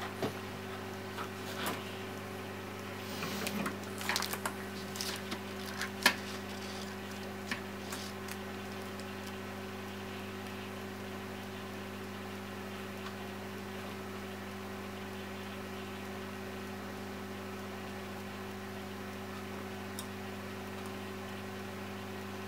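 Steady low electrical hum, with a run of light clicks and rattles over the first eight seconds; the loudest is a sharp click about six seconds in, and after that only the hum remains.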